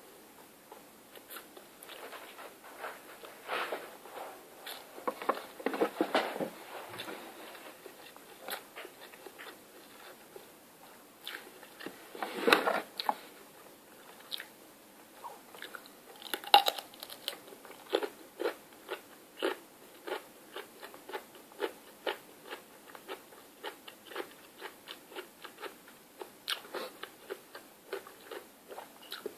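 A person biting and chewing crunchy food close to the microphone, a run of short crunches. The loudest bites come about six and twelve seconds in. From about eighteen seconds the crunches settle into a steady pace of two or three a second.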